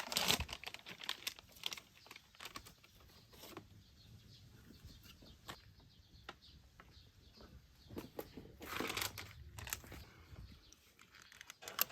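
Irregular rustling and light clicks of things being handled, with louder bursts of rustling at the start and again about three quarters of the way through.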